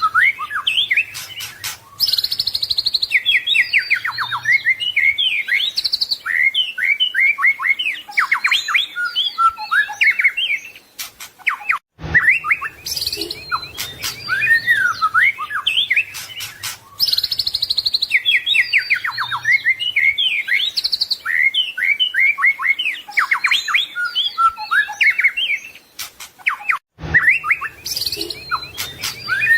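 White-rumped shama (murai batu) singing a continuous, rich song of rapid, varied whistled phrases, slurs and trills, full of mimicked notes. The same song passage repeats about every 15 seconds, with a brief cut about 12 seconds in and again near the end.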